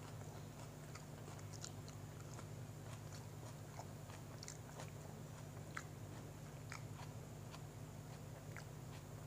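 A person chewing a mouthful of sandwich with the mouth closed: small, scattered moist mouth clicks over a steady low background hum.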